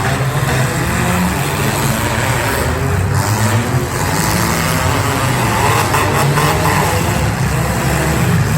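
Engines of several demolition derby cars running and revving together, loud and continuous, with the pitch rising and falling as they accelerate.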